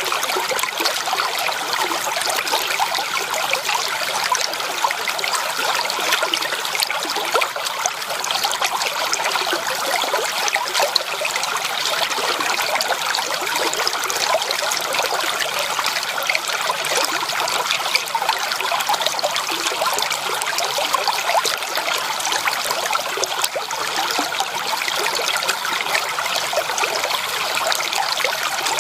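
Flowing stream water, running and splashing steadily without letup.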